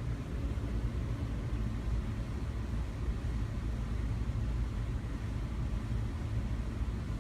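Ceiling fan running steadily: a continuous low rumble with an airy whoosh, unchanging throughout.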